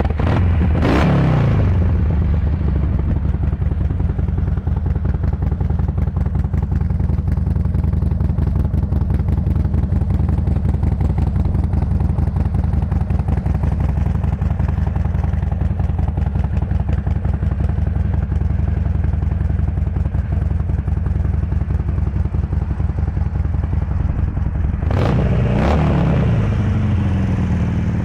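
2008 Harley-Davidson Sportster XL1200C's 1200cc air-cooled V-twin idling with a steady, even beat, blipped up and back down about a second in and again near the end. It runs through stock-looking mufflers that sound louder than factory, which the dealer thinks may have had their baffles knocked out.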